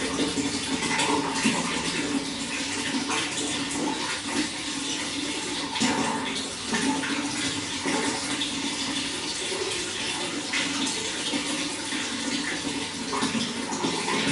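Water running and splashing steadily in a continuous rush, with small irregular splashes.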